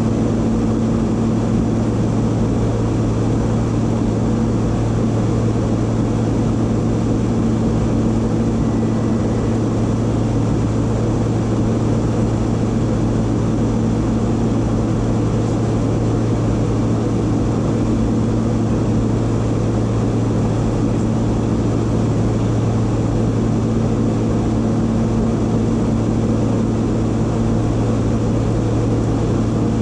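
Private jet in cruise flight, droning steadily: a constant low hum with a steady tone above it and an even rushing hiss of airflow.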